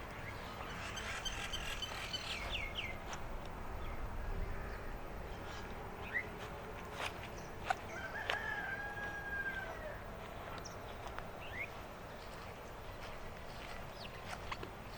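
Rooster crowing twice, first about a second in and again at around eight seconds, ending on a long held note. Short bird chirps and footsteps on the path sound in between.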